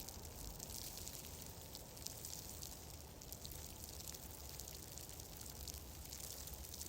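Faint, steady ambience: a soft high hiss full of small scattered ticks and crackles over a low rumble, with no change throughout.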